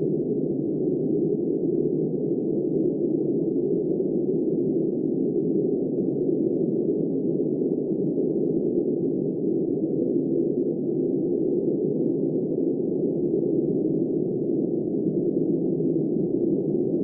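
Blizzard wind: a steady, muffled rush with no high hiss in it.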